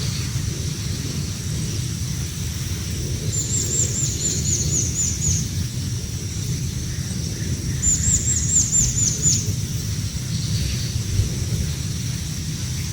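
A small bird calls in two quick runs of about eight high chirps, each note falling in pitch, the second run about four seconds after the first. Under it runs a steady low rumble.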